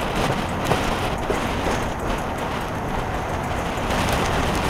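Passenger train rolling along the track, heard from a carriage window: a steady rumble of wheels on rail, with a few sharp clicks early on as the wheels pass over rail joints.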